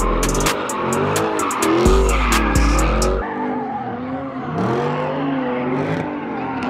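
Car engine revving up and down with tyres screeching. Hip-hop music with heavy bass and hi-hats plays over it and cuts off about three seconds in.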